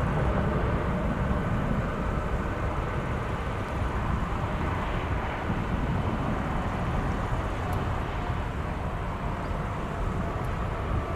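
Jet airliner engines running, a steady rumble with a faint whine above it.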